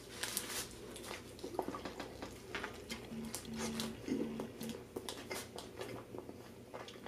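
A person chewing a mouthful of burger close to the microphone: irregular wet mouth clicks and smacks. A few short, low hums come in the middle.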